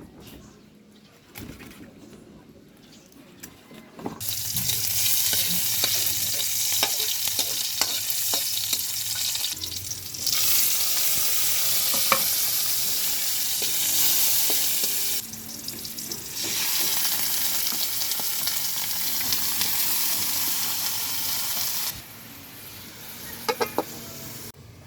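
Food sizzling in a hot pan, with the clinks and scrapes of a utensil stirring it. The sizzle starts about four seconds in, breaks off briefly twice, and drops away a couple of seconds before the end, leaving a few clinks.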